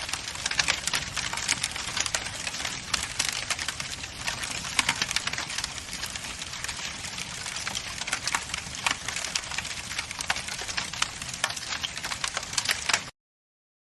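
Fire crackling: a steady hiss thick with sharp pops and snaps. It cuts off suddenly about a second before the end.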